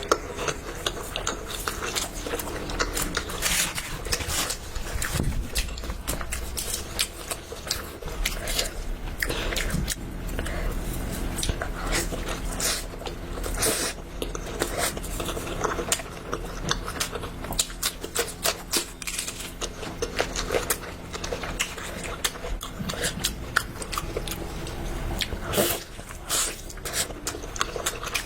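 Chewing and biting food, a steady irregular run of many small clicks and crunches.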